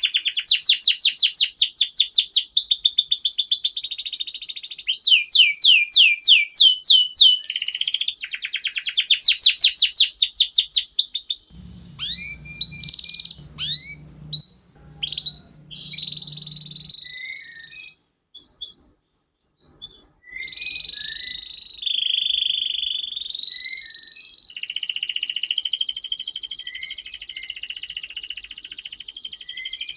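Domestic canary singing: fast, loud repeated trills for roughly the first eleven seconds, then scattered short chirps with brief pauses, then a continuous rolling warble from about twenty seconds in.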